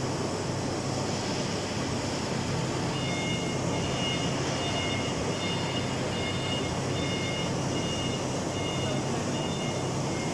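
Machinery running with a steady hum, joined about three seconds in by a repeated high electronic beeping, about two beeps a second.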